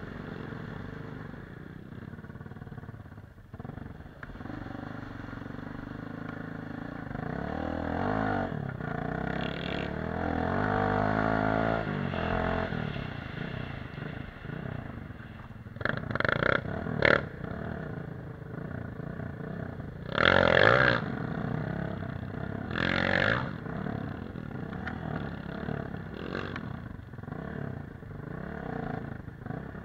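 Off-road motorcycle engine running under varying throttle, its pitch rising and falling around a third of the way in. Several short, loud bursts come past the middle.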